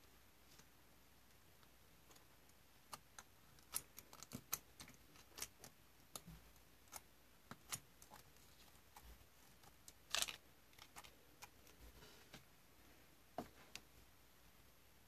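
Slime being played with by hand, giving irregular small sticky clicks and pops, with a short cluster of louder crackles about ten seconds in.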